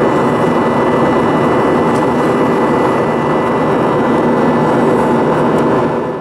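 Steady jet engine and airflow noise heard inside an Airbus A320's cabin as it climbs after takeoff, with a thin steady whine above it. The noise fades away quickly right at the end.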